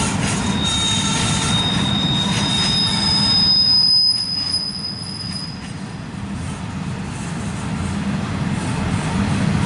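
Intermodal freight train's steel wheels rolling around a tight curve, rumbling on the rails, with flange squeal as wheel flanges grind against the rail. A high squeal starts about half a second in, and a second, higher one overlaps it, both fading out by about six seconds.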